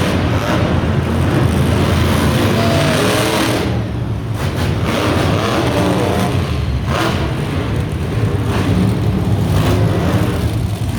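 Monster truck engines running loud and revving as the trucks come in, with the pitch rising and falling a few times.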